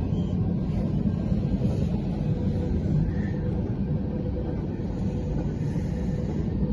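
Freight train of covered hopper cars rolling past, a steady low rumble of wheels on rail, heard from inside a car.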